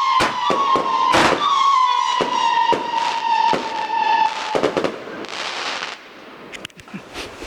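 Firework cake firing: a steady howling whistle with a quick run of sharp bangs over it. The whistle stops about four and a half seconds in, followed by a short hiss and a few scattered pops.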